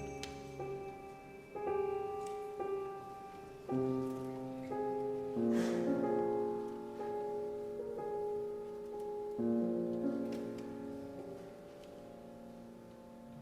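Piano playing slow, sustained chords in a classical concerto, a new chord struck every second or two and left to ring, the music growing softer near the end.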